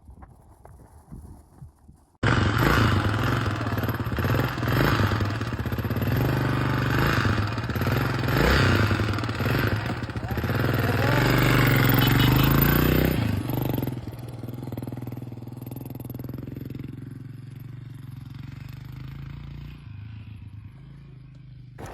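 Enduro motorcycle engine running under way, its pitch rising and falling with the throttle, over a rush of noise. It cuts in suddenly about two seconds in and drops to a quieter, steadier run about two-thirds of the way through.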